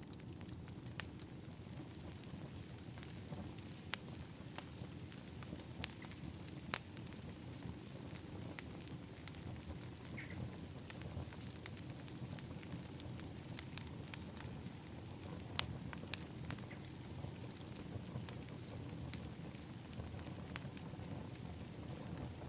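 Wood fire in an outdoor fire pit crackling: irregular sharp pops and snaps over a steady low rumble.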